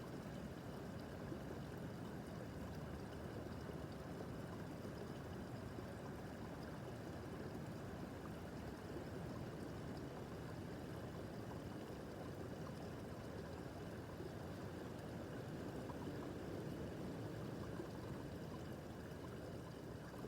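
Small brook babbling steadily over stones, a continuous gentle rush of running water.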